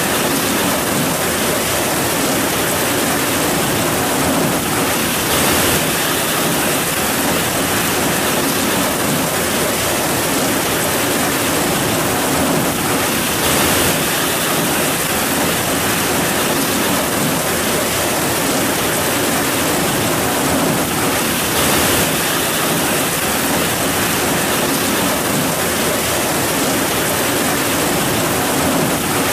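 Heavy rain falling steadily in a dense, even hiss, swelling slightly now and then.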